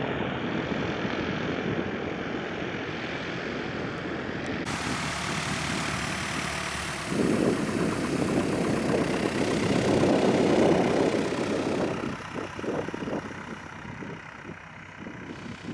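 A propeller airplane's engine running. It grows louder about halfway through, then fades away near the end.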